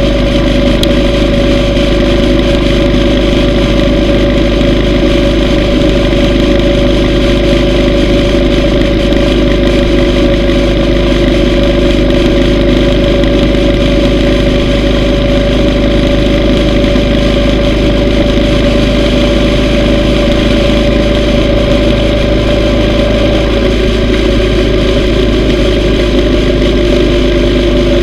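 Yamaha V Star 950 motorcycle cruising at a steady speed: the air-cooled V-twin engine drones evenly, with wind noise.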